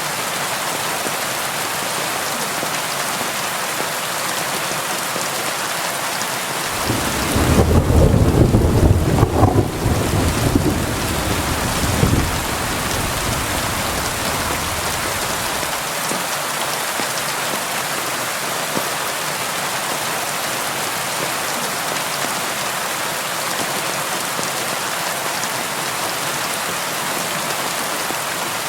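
Steady rain pattering on window glass. About a quarter of the way in, a roll of thunder rises into a deep rumble and fades away over several seconds.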